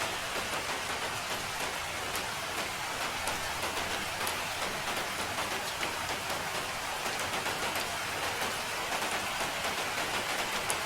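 Steady rain falling, a continuous hiss with many scattered drops pattering.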